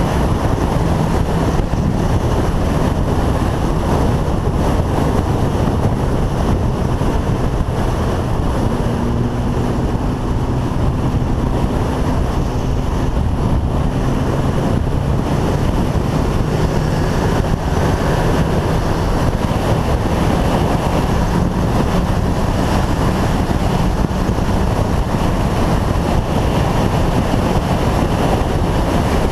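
Motorcycle riding at steady speed: heavy wind buffeting on the microphone covers the bike's engine, whose note is faintly heard holding and shifting slightly in pitch.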